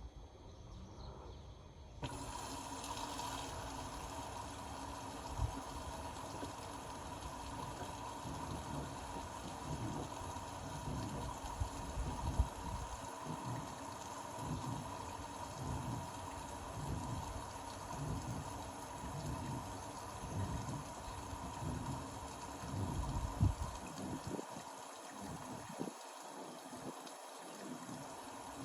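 Indesit Innex BWE 91496X washing machine filling with water: the inlet flow comes on suddenly about two seconds in and keeps up a steady rushing, with a steady tone under it.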